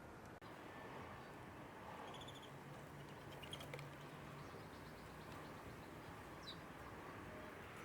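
A few faint, short bird chirps against quiet outdoor background noise, with a low hum in the middle.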